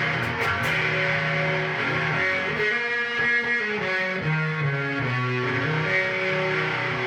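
Mexican Fender Telecaster played with distortion through effects pedals into a Peavey amp and 4x12 cabinet: held notes and chords changing about once a second, with a softer stretch near the middle where the pitch slides.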